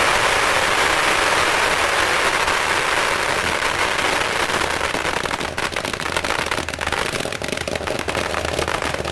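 A long string of firecrackers going off in a dense, continuous rattle of cracks. About halfway through it thins into scattered, separate bangs.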